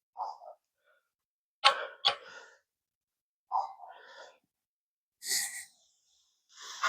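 A press, likely hydraulic, being pumped to force out a U-joint's bearing caps. It makes five short strokes, about one every second and a half to two seconds, each a brief clunk, click or hiss, as pressure builds on the joint.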